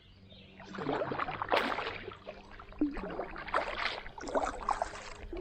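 Kayak paddle strokes in river water: repeated splashing and dripping as the blades dip in and pull through, about one stroke a second, starting about a second in.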